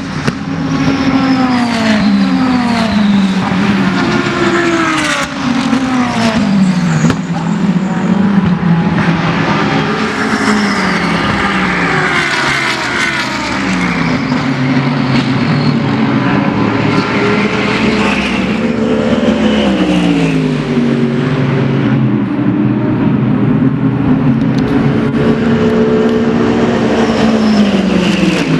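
GT3 race cars running past one after another, loud throughout, their engine notes repeatedly sweeping down in pitch over the first several seconds and then rising and falling with the revs for the rest.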